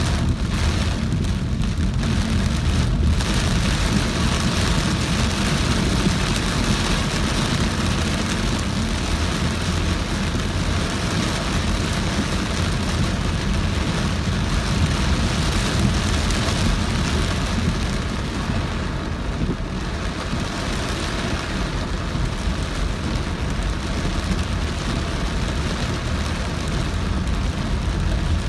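A car driving through very heavy rain: rain pelting the car over steady road and tyre noise, with a strong low rumble. The sound is steady throughout, easing slightly for a couple of seconds a little past the middle.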